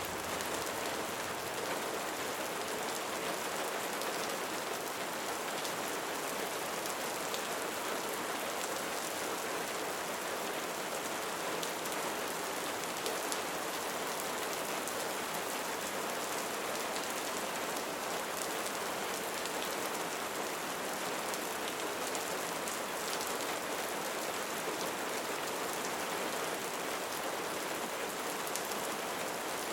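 Steady rain falling, many raindrops pattering on a surface in an even hiss with fine scattered drop ticks and no change in intensity.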